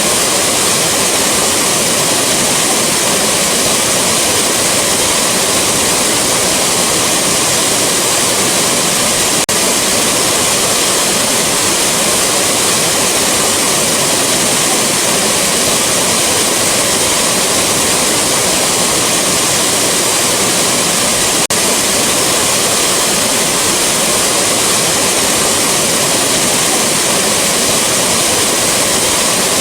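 Rushing waterfall: a dense, steady roar of falling water, with a barely noticeable momentary dip about two-thirds of the way through.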